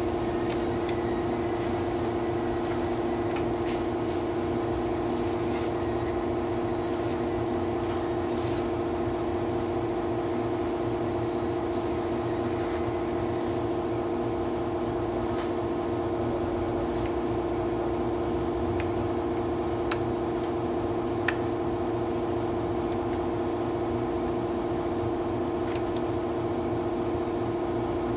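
Steady mechanical hum of a machine running continuously, with a few light clicks and taps over it.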